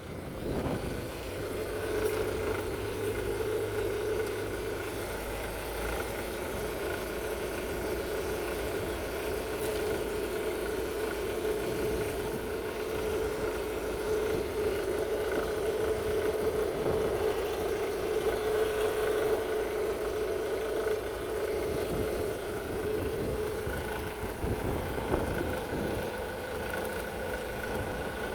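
Jaguar X-Type 2.0-litre four-cylinder diesel engine (FMBA) running steadily, with an even, constant pitch throughout.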